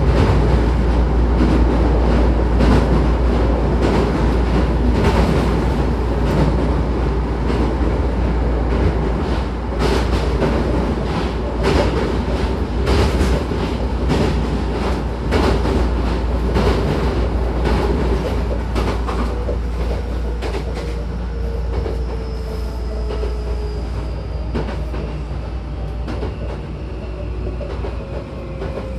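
A Hankyu 9000 series electric train heard from inside the passenger car: a steady low rumble with the wheels clicking over rail joints. In the last part the motor whine falls in pitch and the noise eases as the train slows for the next station.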